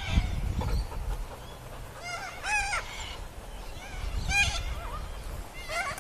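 Sulphur-crested cockatoo calling: harsh, wavering cries about two seconds in, again around four and a half seconds, and just before the end.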